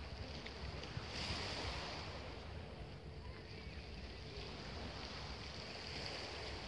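Sea surf washing onto the shore, a wave breaking with a rush of hiss about a second in and another swelling near the end, with wind rumbling on the microphone.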